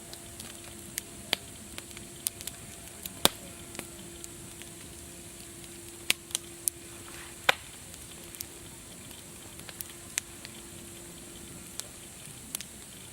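Wood fire crackling: a steady hiss broken by irregular sharp pops and snaps, the loudest a little after three seconds and about seven and a half seconds in.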